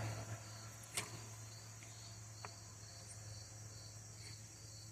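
Quiet background: a faint steady low hum under a steady high trill like insects chirping. A light click comes about a second in and a smaller tick about two and a half seconds in.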